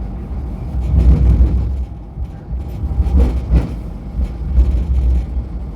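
MTR Light Rail train running on the track: a steady low rumble that swells and eases, with a couple of knocks a little past halfway.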